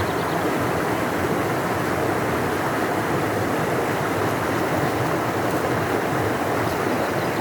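A large river flowing: a deep, steady rush of water.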